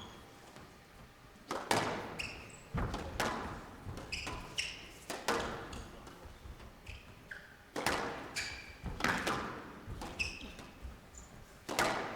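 A squash rally: the ball cracks off rackets and thumps against the court walls at an uneven pace, each hit ringing in a large hall, with short high squeaks of players' shoes on the court floor between shots.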